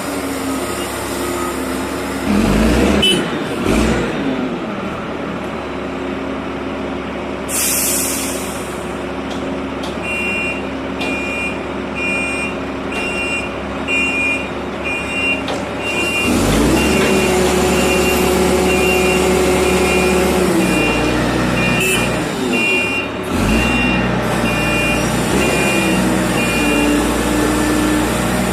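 Reach stacker's diesel engine running and revving up twice under load, with two heavy knocks near the start and a short burst of air hiss. A reversing alarm beeps about once a second through most of the second half.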